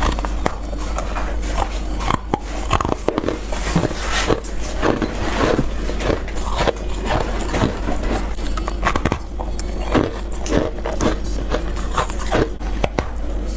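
Someone biting into freezer frost and ice, over and over: a crunch about every second or so, with crumbly scraping in between, over a steady low hum.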